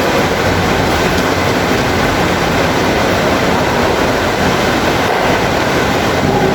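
Heavy rain pouring steadily, a dense even hiss with a low rumble beneath it.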